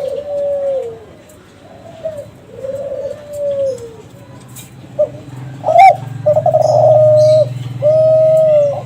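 Kelantan-strain spotted dove cooing: a run of low, level coo phrases that each drop at the end, the loudest near the end. A low steady hum sits under the last few seconds.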